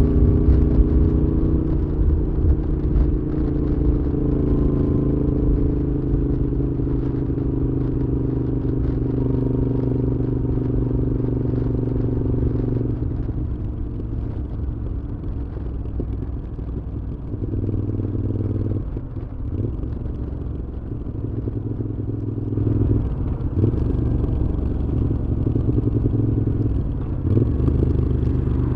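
Moto Guzzi V7's air-cooled transverse V-twin running through a Mistral exhaust while riding, holding a steady note for the first dozen seconds. The note then drops and changes pitch several times as the revs rise and fall.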